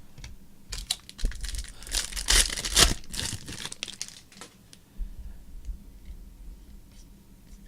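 Foil wrapper of a trading-card pack being torn open and crinkled for a few seconds, followed by a few faint clicks.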